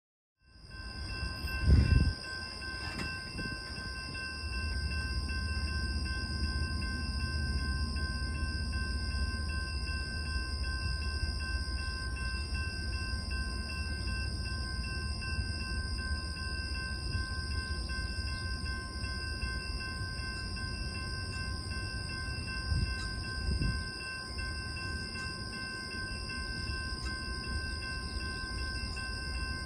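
Train rumbling past on the tracks, a steady low rumble with a loud thump about two seconds in and steady high whining tones over it.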